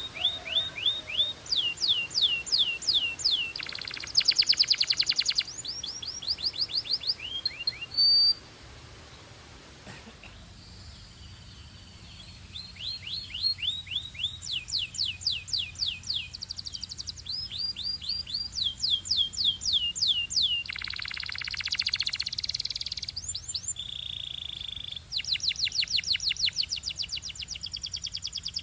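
Belgian canary singing: fast runs of repeated falling whistled notes alternating with rapid rolling trills. The song breaks off for a few seconds about a third of the way in, then picks up again.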